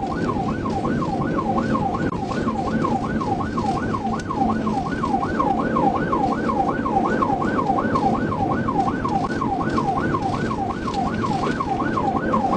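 Police car siren in fast yelp mode, its pitch sweeping up and down about three times a second without a break. Under it is steady road and engine noise from a patrol car in a high-speed pursuit.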